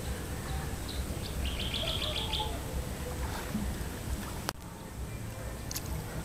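A bird calling: a quick run of about eight high chirps, starting about a second and a half in, over a steady low rumble. A single sharp click a little past halfway.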